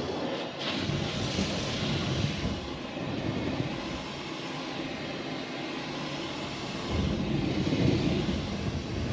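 Steady driving noise of a moving vehicle, engine rumble and road and wind noise, growing a little louder about seven seconds in.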